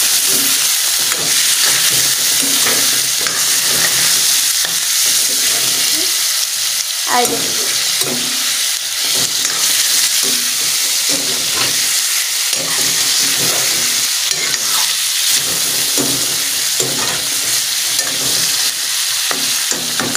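Chicken pieces sizzling steadily in hot oil in a metal kadai, with a metal spatula scraping and stirring against the pan in repeated strokes.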